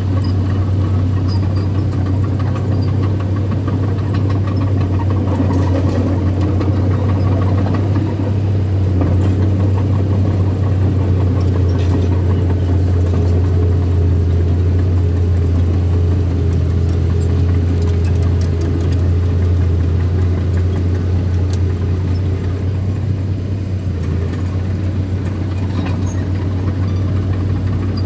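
Small bulldozer's engine running steadily with a strong low hum. A fainter higher steady tone joins in through the middle.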